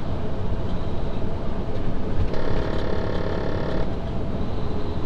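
Semi truck on the road, heard inside the cab: a steady low rumble of engine and road noise. About two seconds in, a steady buzzing tone sounds for about a second and a half, then stops.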